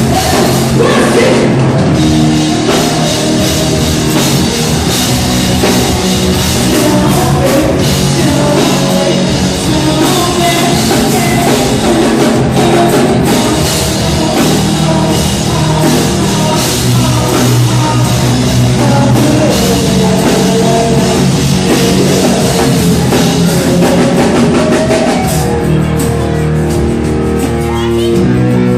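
Loud rock music from a band: drum kit and guitars, with singing. About 25 s in the drums drop away and guitar carries on.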